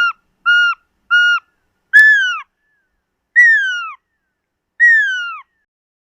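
Pearl-spotted owlet calling: a run of short, evenly spaced whistled notes, about two a second, then three longer whistles that slide down in pitch.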